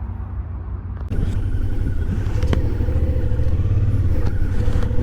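Motor vehicle engine running with a steady low rumble; about a second in it grows louder and a rushing noise joins it.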